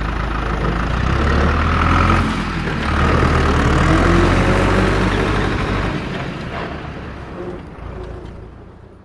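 A heavy truck's diesel engine running loud, then fading steadily away over the last few seconds as the truck moves off.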